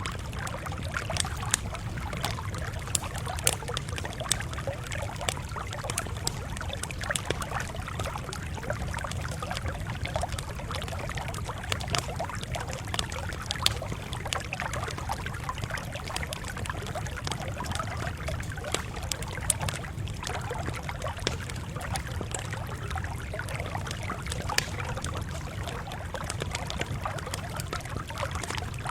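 Campfire crackling: irregular sharp pops and snaps over a steady low rumble and hiss of burning.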